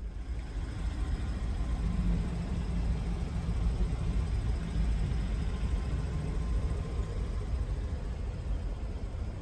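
Chevrolet Blazer's 3.6-litre V6 starting up and running at idle, with a steady low hum. It is loudest for a few seconds after starting and then settles a little lower.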